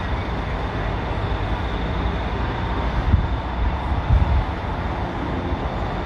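Heavy engine running with a steady low rumble, likely the crane's, with two brief thumps about three and four seconds in.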